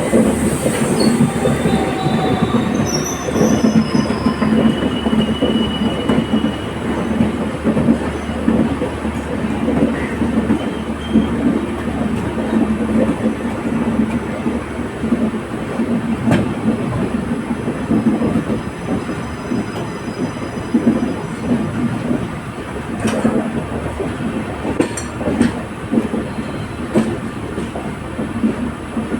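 LHB passenger coaches of an Indian express train running on the rails with a steady rumble. Wheels squeal in thin high tones during the first few seconds, and a few sharp clicks from the track come through near the end.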